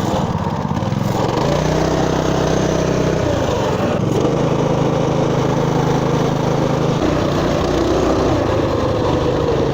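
Small single-cylinder engine of a Motoland RT200 mini all-terrain motorbike running under load while riding, its note stepping up and down a few times as the throttle changes.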